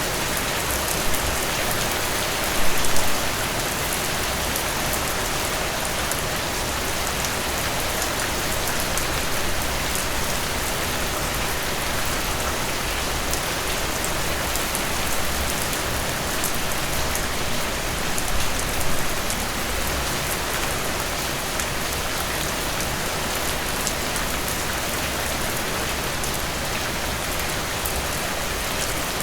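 Steady rain falling, a dense even hiss flecked with many individual drop hits, with a couple of slightly louder moments about three and nineteen seconds in.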